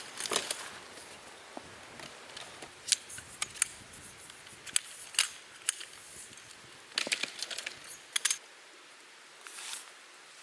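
A series of irregular sharp clicks and short rattles, with a quick flurry about seven seconds in.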